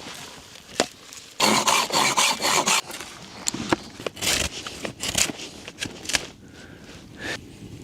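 Rustling and scraping of things being handled, with a loud stretch of rustling about a second and a half in and scattered sharp clicks after it.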